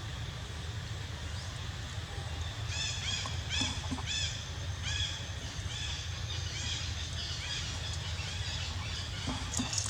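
A run of short, high, arching animal calls, several a second, starting about three seconds in and fading out after about eight seconds, over a steady low rumble.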